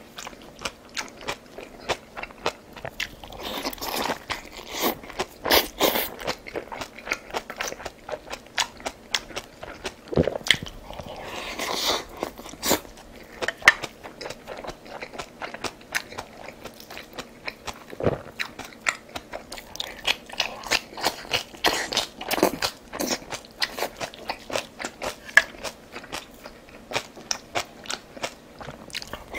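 A person eating close to the microphone: continuous chewing with many irregular crisp crunches and wet clicks.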